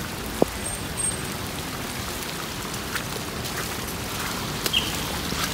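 Steady hiss of rain, with scattered small ticks and one sharp knock about half a second in.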